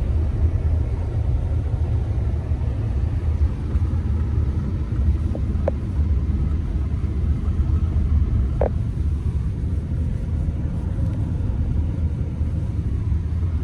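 Steady low rumble of a truck being driven slowly over a snow-covered road, with two faint brief ticks in the middle.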